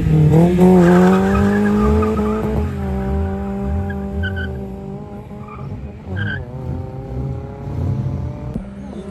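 Race car engine revved hard and held at high revs. The note climbs quickly at the start and holds steady for several seconds, dips and climbs again about six seconds in, then cuts off shortly before the end.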